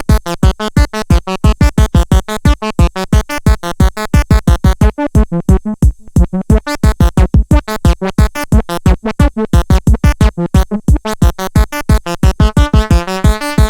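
Electronic synthesizer music: a fast, even run of short, sharp notes, about seven a second, each with a deep bass thump. Near the end a busier layer of shifting tones comes in over it.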